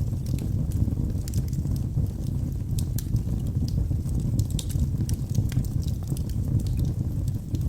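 Wood fire of burning logs, a steady low rumble of the flames with many small scattered pops and crackles.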